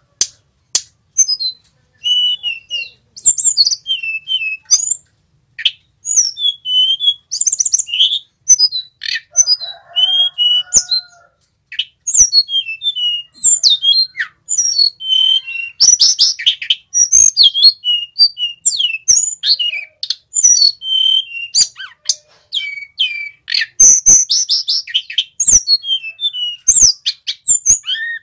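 Male Sulingan Gunung singing a loud, rapid, varied song of short whistled notes and fluty trills, phrase after phrase with brief pauses, with a few sharp clicks between phrases.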